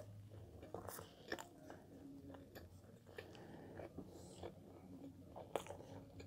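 Faint close-up mouth sounds of someone chewing soft cheese bread: scattered small wet clicks and smacks.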